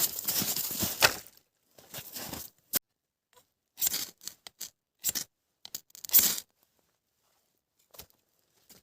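A series of irregular tearing sounds: a long one of nearly two seconds at the start, then shorter, separate tears with pauses between, and a couple of faint clicks near the end.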